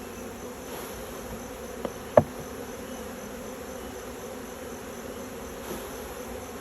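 A swarm of honeybees buzzing steadily around the hives. About two seconds in there are two short knocks close together; the second is the louder.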